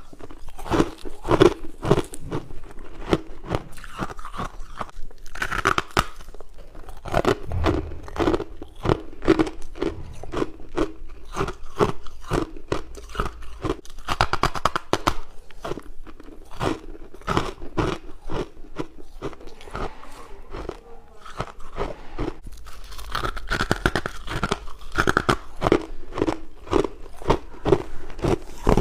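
A person crunching and chewing frost ice close to the microphone, a dense, irregular run of sharp crunches several times a second.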